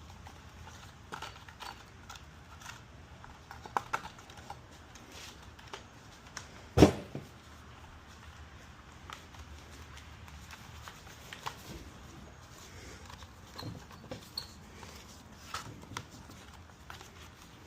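Scattered light clicks and taps of small engine parts and hand tools being handled, with one louder knock about seven seconds in.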